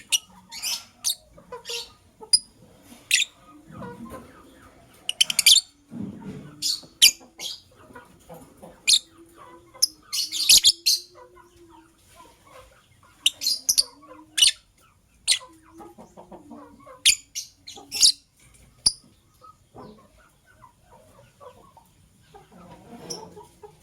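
Lovebirds, a blue opaline and a masked lovebird, chirping: short, sharp, high-pitched calls in irregular bursts, with some fainter low, wavering tones in between.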